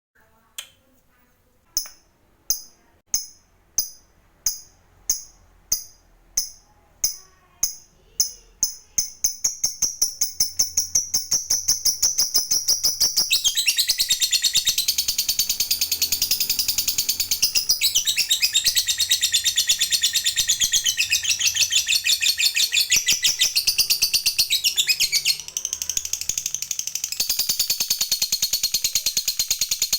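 Lovebird 'ngekek': sharp high calls that start spaced apart and speed up into a long, fast, continuous chattering trill.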